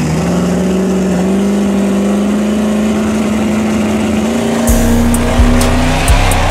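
A car engine held at high revs, its pitch climbing slowly and steadily. Near the end, loud bass-heavy music beats come in.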